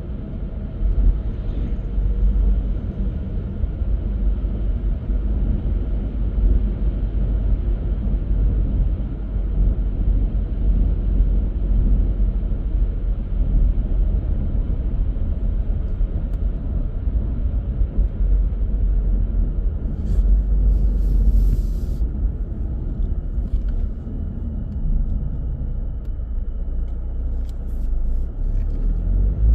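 Car driving on the road: a steady low rumble of tyre and engine noise, with a brief hiss about two-thirds of the way through.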